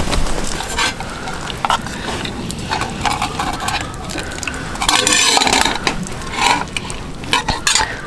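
A spoon or ladle stirring and scraping in a pot of samgyetang, with irregular clinks against the pot and a longer scraping stir about five seconds in.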